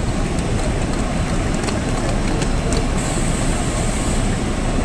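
Steady low rumble of a train, with a few faint clicks and a thin high whine in the second half.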